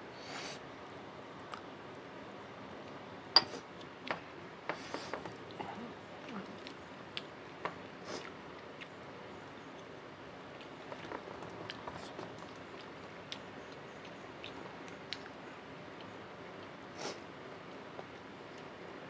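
Close-miked eating sounds: chewing and wet mouth noises of a man eating rice and chicken kosha with his hand, with scattered short clicks and smacks. The sharpest comes about three and a half seconds in.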